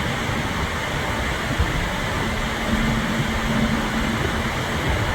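Steady machinery noise of a car ferry manoeuvring to dock, as its engines and thrusters work. A humming tone comes in for about a second and a half around the middle.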